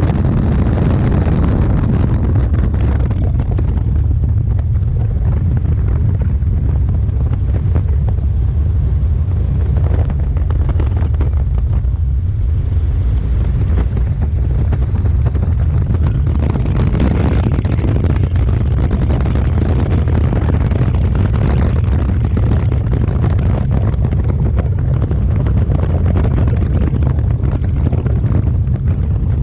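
Robinson R44 helicopter in flight with its doors off: a loud, steady low rumble of rotor and engine, with wind buffeting the microphone.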